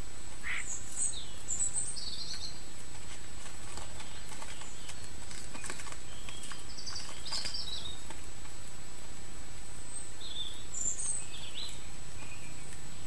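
Wild garden birds chirping in short, scattered calls over a steady background hiss, with a few light taps.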